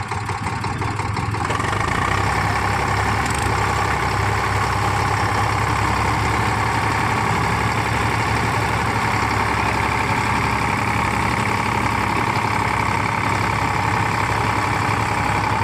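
Tractor diesel engine running steadily. It gets louder about a second and a half in, then holds.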